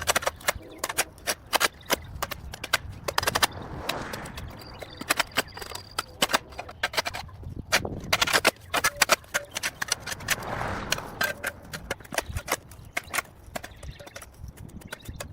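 Dense, irregular sharp clicks and snaps, several a second, some much louder than others.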